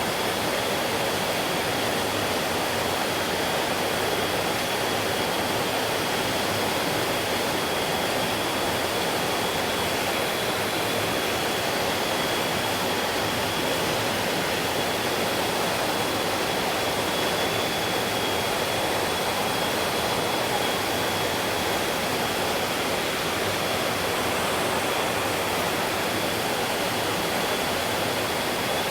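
Mountain stream flowing steadily, an even rush of water over rocks, with a faint steady high-pitched tone running alongside it.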